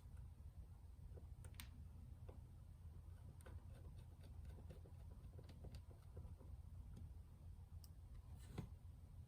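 Near silence with a low hum and a few faint, scattered small clicks and taps, most of them bunched in the middle.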